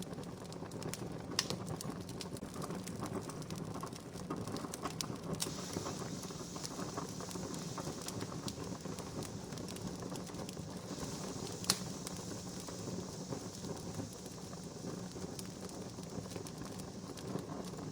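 Wood campfire burning with a steady hiss and constant small crackles, and two louder pops, about a second and a half in and again about two-thirds of the way through.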